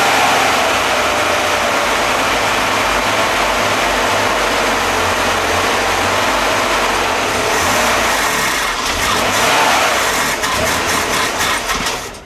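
Rebuilt Corvair air-cooled flat-six running steadily on its initial break-in run. About nine seconds in it starts to stumble unevenly, and near the end it suddenly quits.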